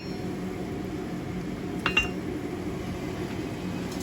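A single light hammer tap on a high-carbon steel knife blade at the anvil about two seconds in, with a short metallic ring, over a steady low background noise.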